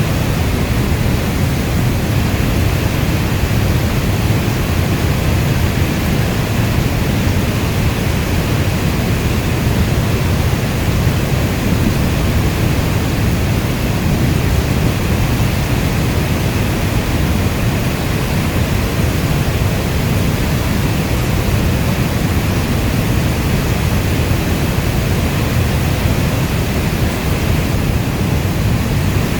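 Steady heavy rain: a constant, even hiss with a deep low rumble underneath.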